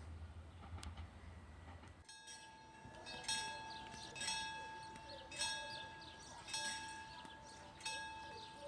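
Railway level-crossing bell ringing, struck about once a second with the tone ringing on between strikes. It takes over about two seconds in from a low rumble.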